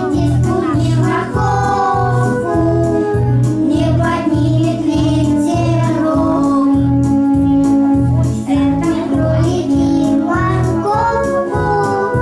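A song with a steady beat, a sung melody over a bouncy accompaniment.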